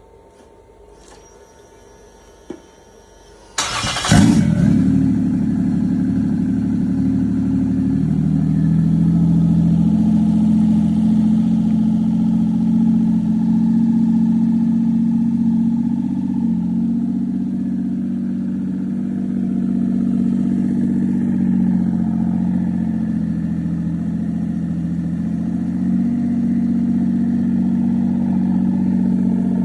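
Toyota 2JZ VVT-i inline-six cold start: a click about two and a half seconds in, a short burst of cranking a second later, then the engine catches and idles steadily.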